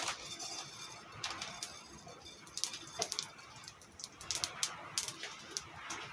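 Cumin seeds crackling in hot oil in a cooking pot, with scattered sharp pops at irregular intervals.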